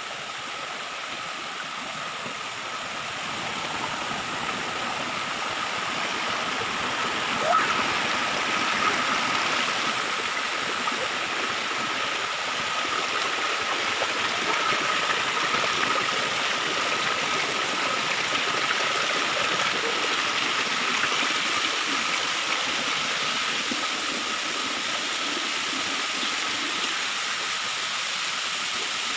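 Waterfall rushing steadily, an even hiss of falling water, with a faint steady whine running through it and a brief louder moment about seven seconds in.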